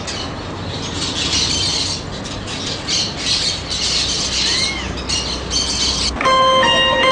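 Many birds calling at once in a dense, overlapping din. About six seconds in, music with plucked and mallet-like notes starts.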